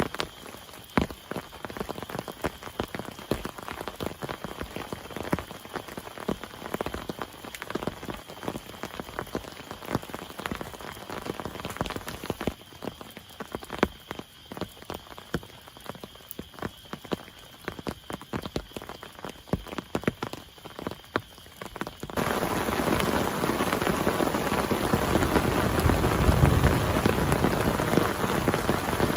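Rain falling, heard at first as many separate drops striking a surface. About three-quarters of the way through it switches abruptly to a louder, dense, steady downpour, and a low rumble comes in near the end.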